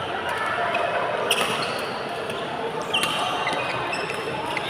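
Badminton rally on an indoor court: two sharp racket strikes on the shuttlecock, about a second in and again near three seconds, with short high squeaks of shoes on the court floor. Voices murmur in the hall throughout.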